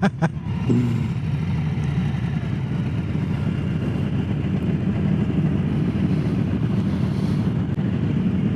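Harley-Davidson Low Rider S's Milwaukee-Eight V-twin running steadily at cruising speed, with wind and road noise.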